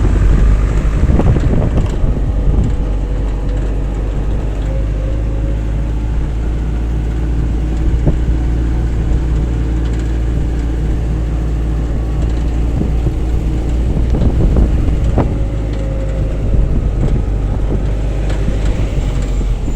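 A moving vehicle's engine and road noise, steady throughout, with wind buffeting the microphone.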